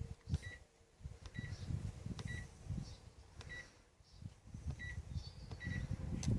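Panasonic NA-147VB2 inverter washing machine running, with irregular low thumps and rumbles and a few sharp clicks. A short high tone repeats roughly once a second.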